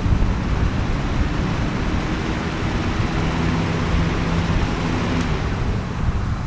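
Holmes HBF2002A box fan running with a steady rush of air, mixed with wind on the microphone; a faint low motor hum shows through the middle.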